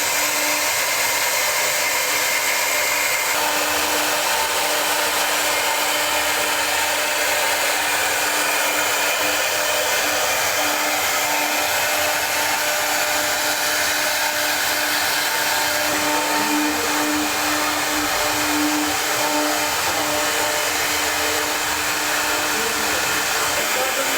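High-speed CNC router spindle running, a steady rushing noise with a constant tone under it, even in loudness throughout; a fainter higher whine drops out about three seconds in.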